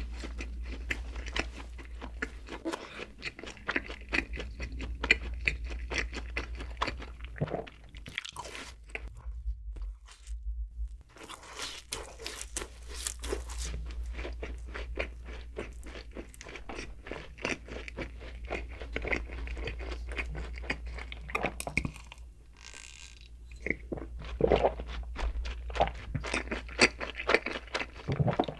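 Close-miked chewing of donuts: dense, irregular crunching and wet mouth sounds, broken by a short pause about ten seconds in and a quieter moment a little past twenty seconds.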